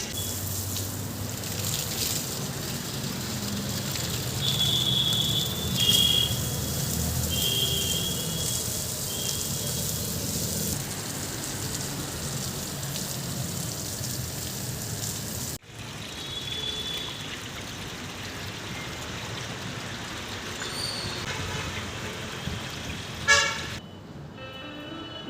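Outdoor traffic noise with several short horn toots, broken by a sudden cut partway through and a brief loud knock or clatter near the end.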